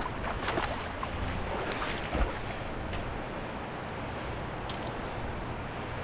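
Steady rushing of a rising river, with a few light clicks and one short knock a little after two seconds.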